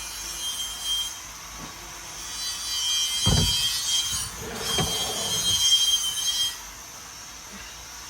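Rubbing and scraping as a trimmed panel is pushed and worked into place in the car, with a thump about three seconds in and another near five seconds.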